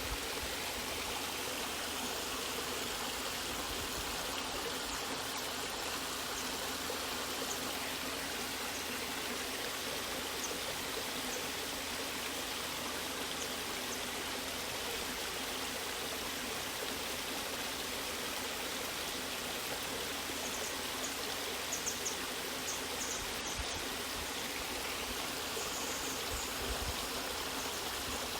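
Waterfall water rushing and splashing in a steady, even wash, with a few faint short ticks in the last third.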